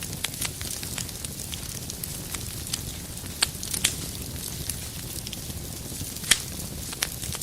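Fireplace fire burning, a steady low rumble with irregular sharp crackles and pops; the loudest pop comes about six seconds in.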